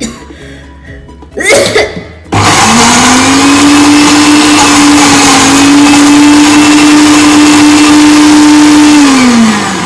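A Philips countertop blender switches on about two seconds in. Its motor climbs to a steady high pitch as it chops red chillies, then winds down with a falling pitch near the end as it is switched off, leaving the paste coarse.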